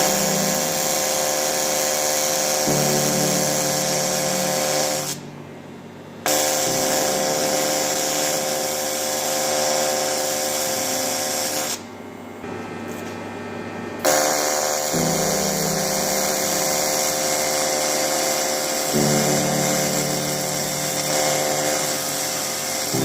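AC TIG welding arc on aluminium, a steady harsh buzz with a strong hum, stopping twice for a second or two and striking again. Background music plays underneath.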